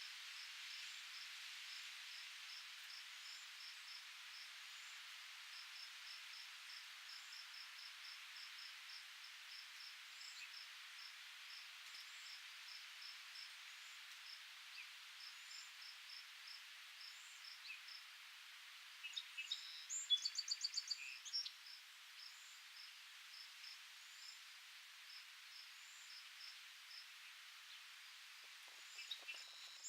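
Faint outdoor nature ambience: a soft, steady hiss of breeze, with an insect chirping in a quick, regular series through the first half. About two-thirds through, a bird sings a short, rapid trill, the loudest sound here, and it starts again at the very end.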